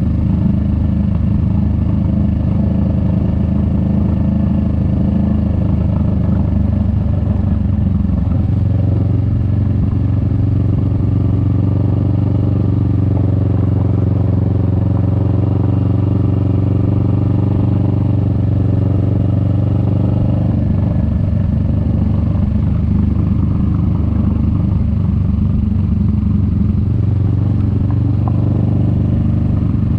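Kawasaki Vulcan S 650's parallel-twin engine running under way, its note shifting several times as the revs change.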